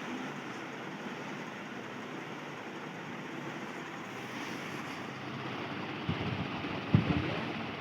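GFC 56-inch ceiling fan running, a steady rushing whir of air and motor; the owner calls it too noisy at full speed. A couple of short low thumps come near the end.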